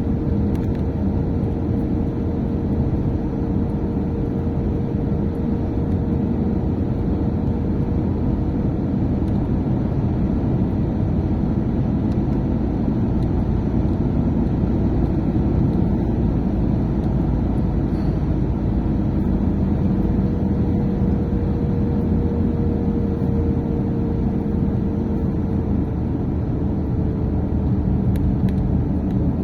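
Steady engine and road noise of a vehicle being driven, heard from inside the cab: a constant low rumble with a faint engine hum whose pitch eases down slightly about two-thirds of the way through.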